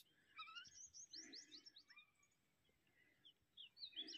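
Faint birdsong: a run of quick, high chirps, a pause of about a second, then more chirps near the end.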